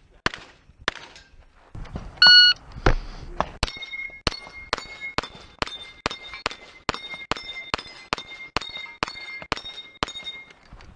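A shot timer's start beep about two seconds in, then a fast, even string of 9mm shots from a SIG MPX carbine, about three a second, most of them followed by a short ringing tone.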